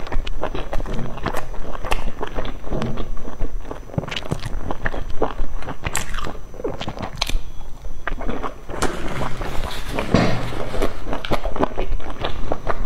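Close-miked biting and chewing of food: a rapid run of small mouth clicks and smacks.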